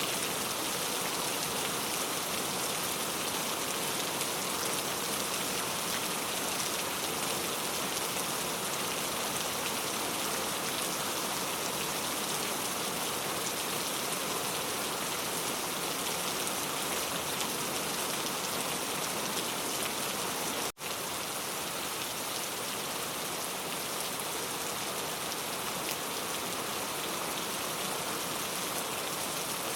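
Very heavy rain falling steadily as an even hiss. The sound cuts out for an instant about two-thirds of the way through, then carries on unchanged.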